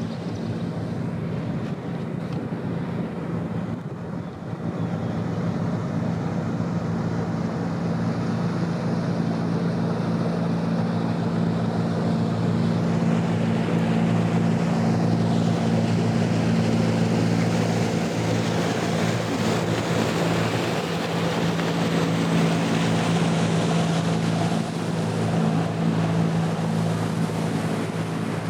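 A vessel's engine running with a steady low hum. Rushing water wash swells up through the middle and eases off towards the end, with wind on the microphone.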